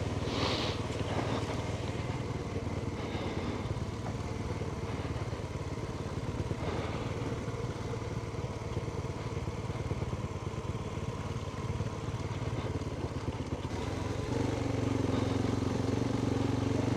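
Adventure motorcycle engine running steadily at low revs, with the throttle opening and the engine getting louder about fourteen seconds in.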